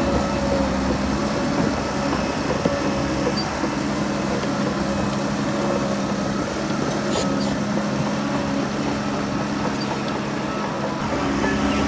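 Heavy diesel engine of earthmoving machinery running steadily at an even speed, with a couple of faint clicks about seven seconds in.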